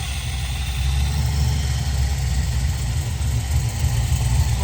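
Truck engine running steadily, a deep, choppy low-pitched engine note that gets a little louder about a second in.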